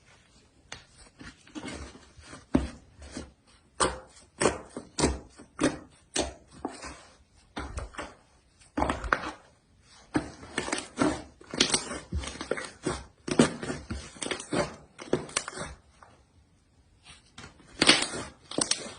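Slime being squished and worked by hand, making irregular sticky pops and crackles; they pause briefly a little before the end, then come back with a louder burst.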